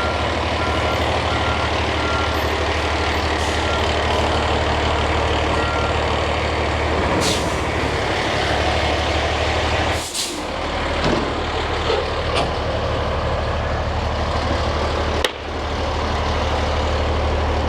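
Ladder fire truck's engine running steadily, with a warning beeper sounding in short repeated beeps for the first several seconds. Air hisses a couple of times partway through, and there is a short break with a click near the end.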